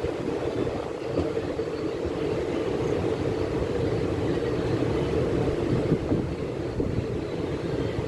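Steady rumble of a moving vehicle, with a constant hum and a few faint clicks.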